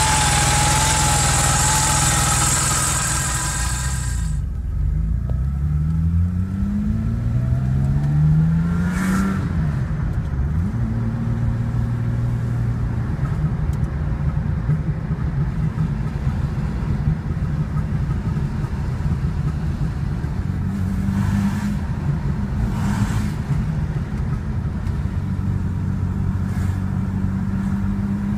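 Porsche 930 Turbo's air-cooled flat-six idling cold and a little unevenly, with a wavering whine over it; after about four seconds it is heard from inside the cabin pulling away, rising in pitch through the gears, then running steadily at cruising speed.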